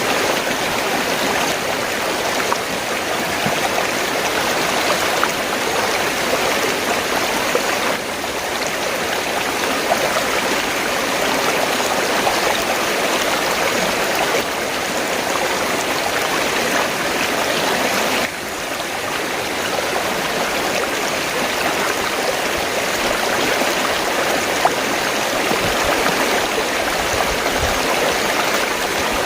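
River water flowing, a steady rushing, with small sudden dips in level about eight and eighteen seconds in.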